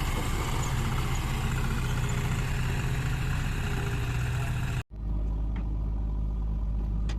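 Heavy diesel engine running steadily. About five seconds in the sound cuts off abruptly to a different engine running with a deeper hum and a few faint clicks.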